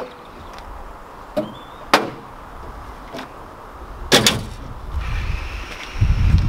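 Several clunks of a car door, the loudest about four seconds in, then a low rumble building near the end as the Ford Capri's Pinto four-cylinder engine starts, just after its valve clearances have been adjusted.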